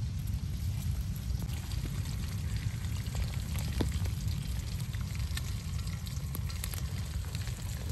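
Food sizzling in a cooking pot, with scattered sharp crackles over a steady low rumble.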